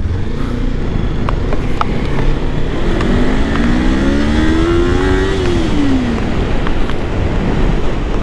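Kawasaki Ninja 400's parallel-twin engine rising in pitch for about two seconds and then dropping away, over steady wind and road noise on a helmet-mounted camera.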